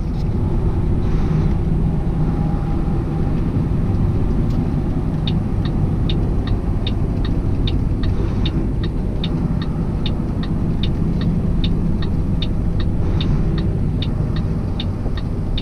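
Steady engine and road rumble heard from inside a truck cab while driving. About five seconds in, a turn signal starts clicking at an even rate of two to three clicks a second.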